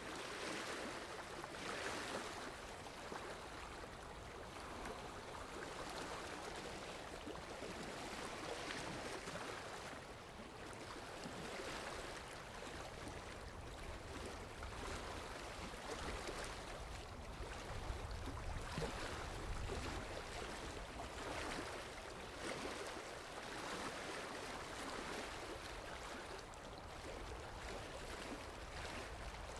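Moving water, a continuous rushing and splashing that swells a little every few seconds.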